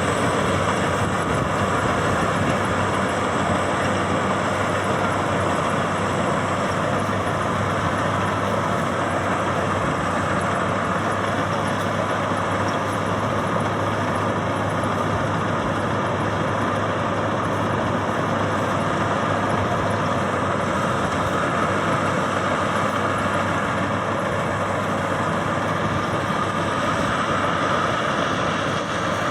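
Maxxi Bimo 102 X Top combine harvester running steadily, a loud, even machine noise that does not change.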